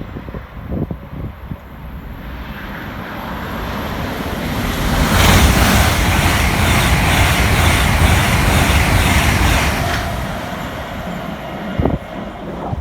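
A train passing at speed. Its noise builds over a few seconds, stays loud for about five seconds, then fades, with a short knock near the end.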